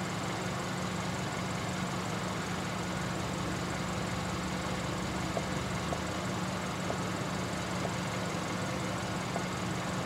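Distant diesel freight train approaching, its locomotives giving a steady low drone over a background hiss, with a few faint ticks in the second half.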